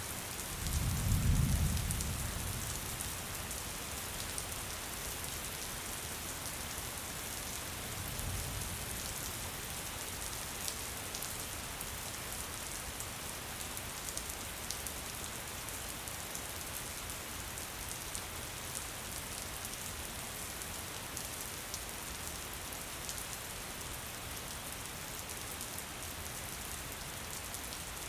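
Steady rain falling in woodland, an even hiss with scattered raindrop ticks. A low rumble swells about a second in, and a weaker one comes around eight seconds.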